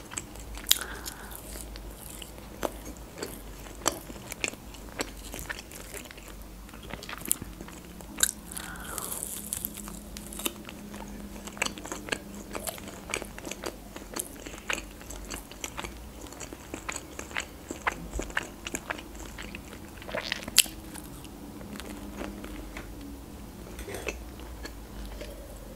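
Close-miked chewing of crispy breaded chicken nuggets: many small, irregular crunches and wet mouth clicks.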